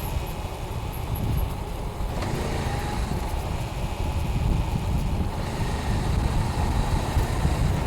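Honda Rebel 500 motorcycle being ridden, its parallel-twin engine running steadily through the stock exhaust, mixed with wind noise on the microphone.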